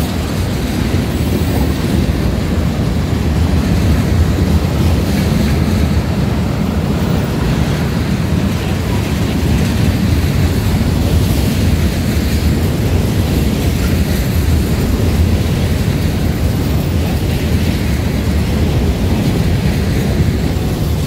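Cars of a CSX freight train (tank cars, covered hoppers and boxcars) rolling past: a steady, low rumble of steel wheels on rail that holds at an even level throughout.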